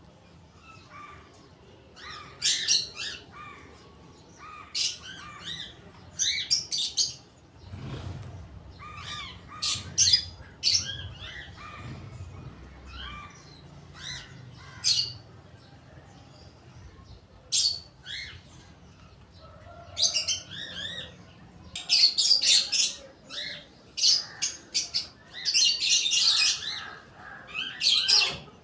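Birds chirping and calling in irregular bursts of quick, high notes, busiest near the end, with a low rumble underneath for a few seconds near the middle.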